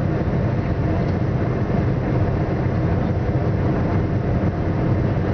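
Steady, loud drone of a passenger ferry under way: engines running with the rush of the hull through the water, deep and unchanging throughout.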